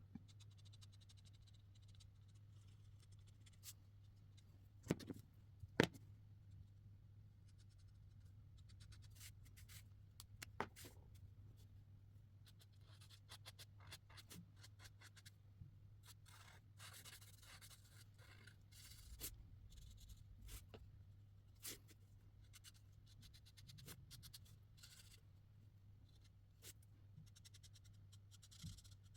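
Faint scratching of marker tips stroked across paper, in short patches, with a few sharp clicks between them. A steady low hum sits underneath.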